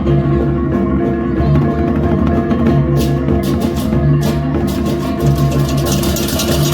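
Balinese gamelan baleganjur playing: held metallic gong tones under drums and clashing cymbals, with the cymbals growing dense and rapid near the end.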